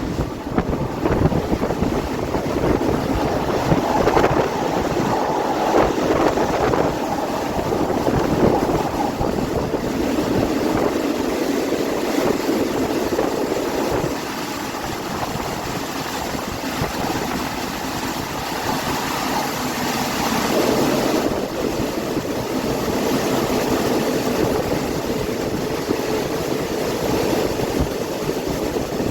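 Passenger train running along the line: a steady rush of wind and rumble of the wheels on the rails, heard from inside a carriage.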